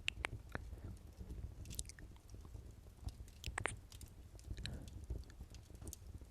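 Close-miked ASMR kissing sounds: a scatter of short, wet lip smacks right on the microphone, several near the start and a couple more about three and a half seconds in.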